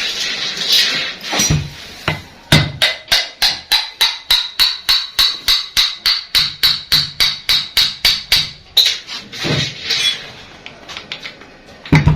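Hammer striking metal on a car AC compressor being taken apart: a quick, even run of ringing blows, about four a second for some six seconds, with a few looser knocks before and a heavier double knock at the end.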